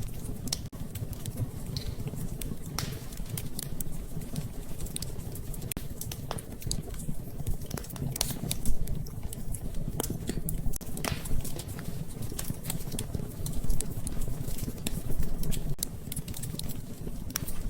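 Wood fire in a fireplace crackling, with irregular pops and snaps over a low steady rumble.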